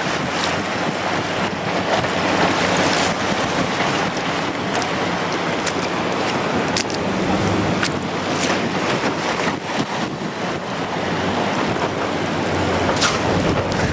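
Strong wind buffeting the microphone: a loud, steady rushing noise with a few brief crackles.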